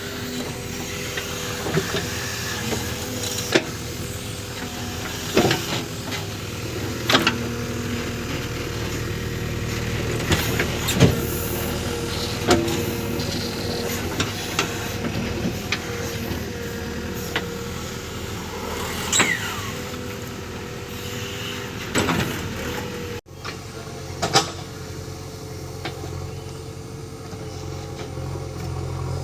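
JCB backhoe loader's diesel engine running steadily at work, with sharp knocks and clanks every few seconds.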